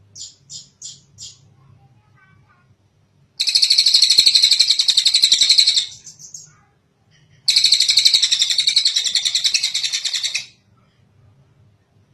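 Tengek cililin bird calling: four short high notes, then two long, rapid, rattling trills, each lasting about three seconds.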